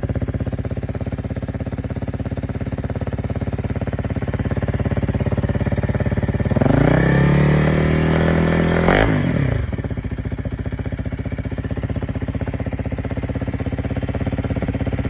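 Honda CRF300L's single-cylinder engine idling through the stock exhaust with the spark arrestor removed. About six and a half seconds in it is revved: the pitch rises and holds for a few seconds, with a sharp blip near the top, then falls back to a steady idle.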